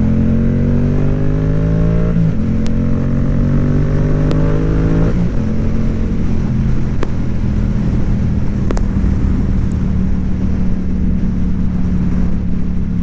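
Motorcycle engine pulling up through the revs, with two gear upshifts about two and five seconds in, each dropping the pitch, then holding a steady cruise.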